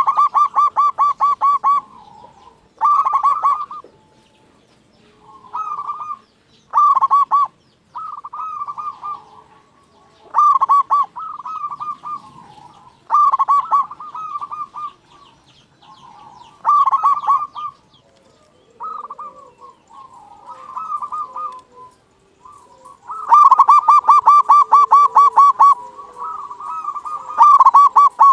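Zebra dove (perkutut) cooing in repeated phrases of rapid staccato notes, each phrase one to two seconds long, with quieter phrases in between. A long loud run comes near the end.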